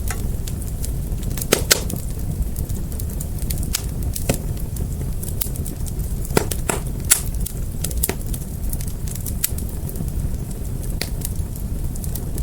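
A fire crackling, with irregular sharp pops and snaps over a steady low rumble of the flames; a few louder pops stand out, two close together near the start and two more around the middle.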